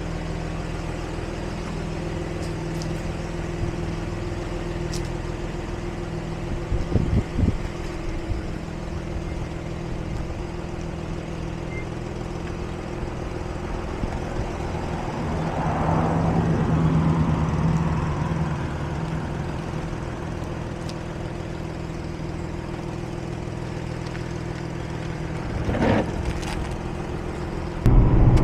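A car engine idling steadily. It swells briefly about halfway through, and there are a couple of short knocks. Right at the end the sound jumps louder as the car is driving.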